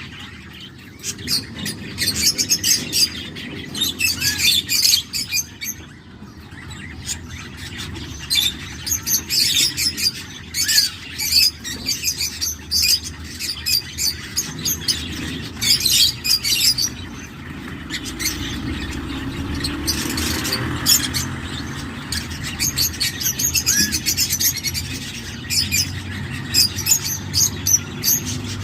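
Cockatiel chicks in the nest giving quick, raspy, high-pitched begging calls, over and over in runs with short pauses.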